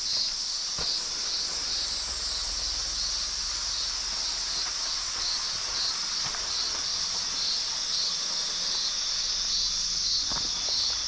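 Chorus of insects in the bush: a steady, high-pitched buzz that pulses about three times a second.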